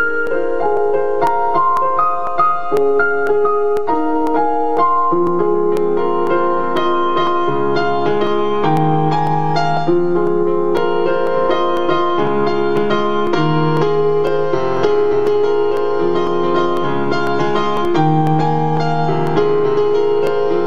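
Piano music: a gentle melody of separate notes, with lower bass notes joining in about five seconds in.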